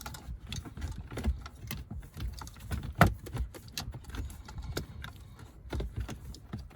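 Wiring and a small plastic interface box being handled and pushed into the space behind a car dashboard: irregular clicks, rattles and knocks of plastic and connectors, with one sharper knock about three seconds in.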